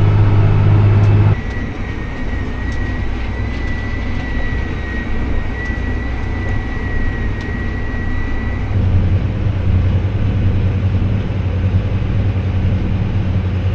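Heavy diesel farm machinery running steadily with a deep hum. About a second in the sound changes abruptly, and a steady high whine carries on for several seconds before the deep hum returns.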